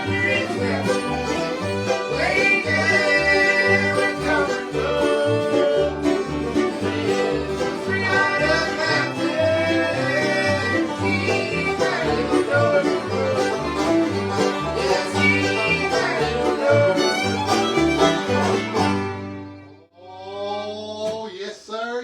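Bluegrass band playing an instrumental number, a fiddle leading over banjo and guitar, ending on a final chord about 19 seconds in; a man's voice follows near the end.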